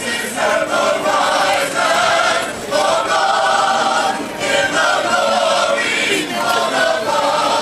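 Voices singing together, holding long notes in a run of short phrases of about a second each, with brief breaks between them.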